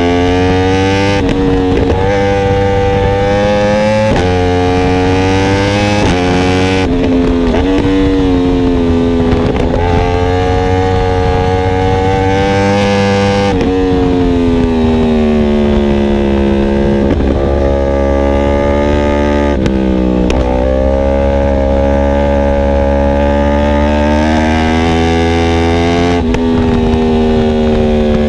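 Yamaha R1M crossplane inline-four sport bike through an Akrapovic exhaust, running hard at speed: the engine note climbs steadily, then drops sharply at each of several gear changes.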